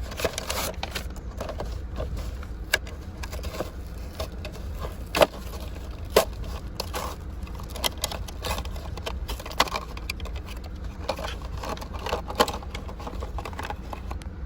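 Hands tearing open a toy's cardboard-and-plastic blister package: irregular crinkling and scraping, broken by sharp snaps and clicks, the loudest about five and six seconds in.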